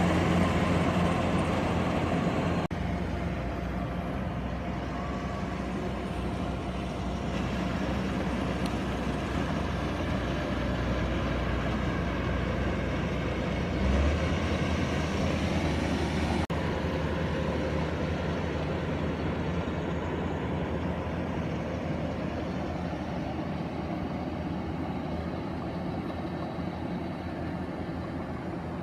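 Engine of a rice harvesting machine running steadily under load. The sound shifts abruptly three times.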